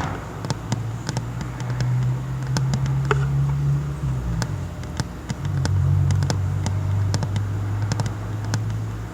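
Light, uneven taps on a tabletop, scattered throughout, over a louder steady low mechanical hum that shifts in pitch about four to five seconds in.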